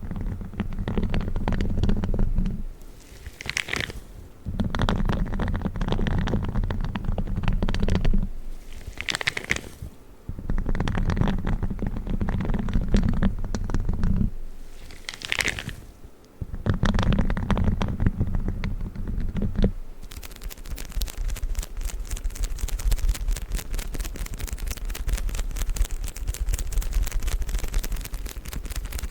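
Spiky gloves handled close to the microphone: four long, low rubbing passes of a few seconds each, with short high swishes between them. About twenty seconds in this gives way to a continuous fine crackling of tissue paper being handled.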